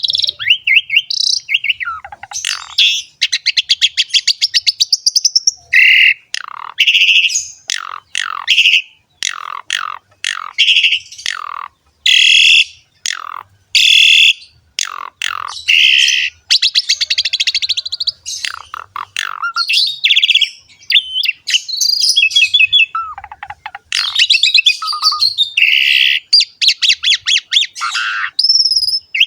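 Asian pied starling (jalak suren) singing a long, varied song, almost without pause: falling whistled notes mixed with fast rattling runs of notes and sharp chirps.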